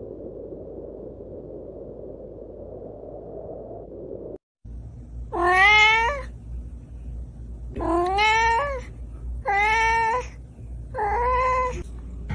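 A steady low rushing noise for about four seconds that cuts off abruptly. Then a kitten meows four times, about one and a half seconds apart, each call rising and then falling in pitch.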